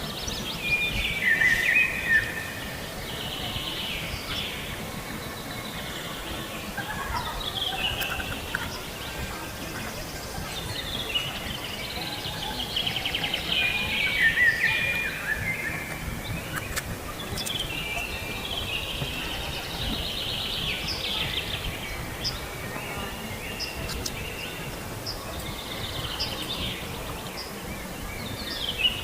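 Birds chirping and calling in repeated short trills and glides over a steady outdoor background noise.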